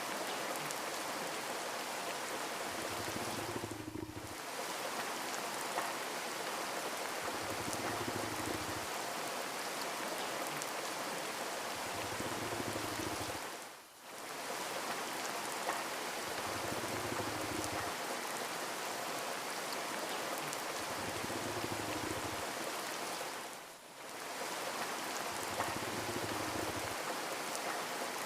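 Steady rain falling, an even hiss of drops, dipping briefly three times about ten seconds apart.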